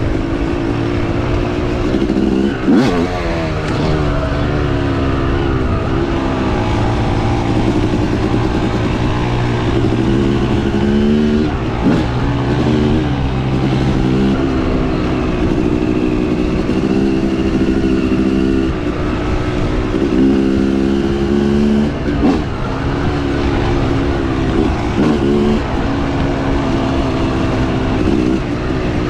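Dirt bike engine being ridden hard, its pitch climbing and dropping over and over as the throttle is opened and closed, with a few sudden breaks in the sound.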